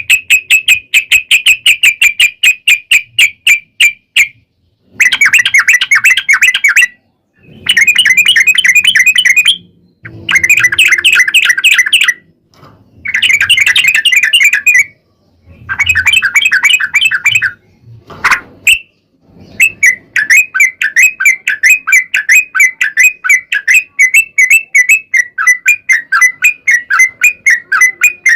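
Yellow-vented bulbul (trucukan) singing its rapid, chattering 'ropel' song: quick repeated notes in phrases of about two seconds with short pauses. About two-thirds of the way through it breaks into one long unbroken run.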